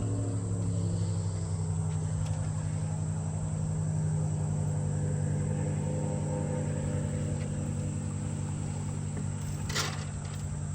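Boat's outboard motor running at a steady speed, its pitch dropping slightly about a second in. A short sharp noise comes near the end.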